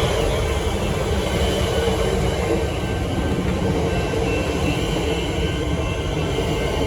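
Suburban train passing over a level crossing, a steady loud rumble of wheels on the rails.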